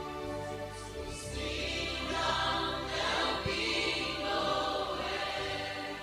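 Worship music: sustained keyboard chords under choir singing that swells up in the middle and eases off toward the end.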